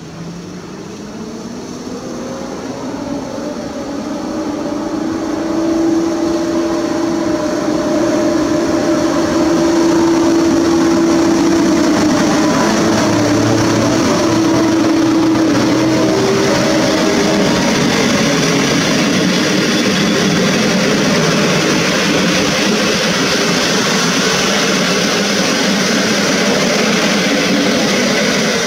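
Electric locomotive hauling a passenger train, moving off from the platform: its motor whine rises in pitch as it gathers speed over the first few seconds, then the coaches roll past with a steady loud rolling noise.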